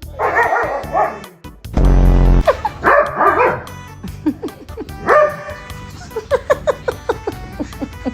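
A dog barking a few times, in bursts near the start, about three seconds in and about five seconds in, over background music with a steady beat.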